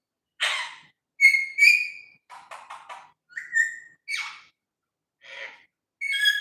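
Pet parrot calling: a string of short squawks and clear whistled notes, with a quick burst of chattering clicks midway.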